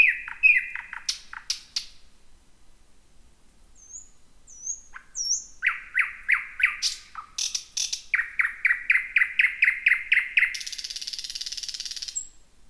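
Thrush nightingale singing. It opens with repeated falling notes and sharp clicks, gives a few thin high whistles, then a long, fast run of repeated notes, and ends near the close in a dry, buzzing rattle.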